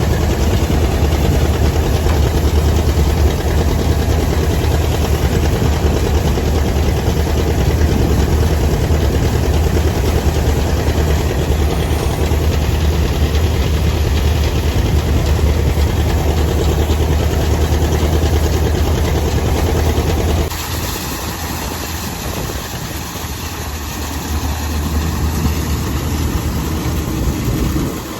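Heavy tractor engine running steadily at idle with a deep hum. About twenty seconds in, the sound changes suddenly to a quieter, thinner engine note.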